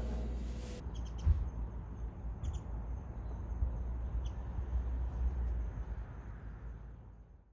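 Outdoor ambience: a low wind rumble on the microphone with a few short, high bird chirps, fading out near the end.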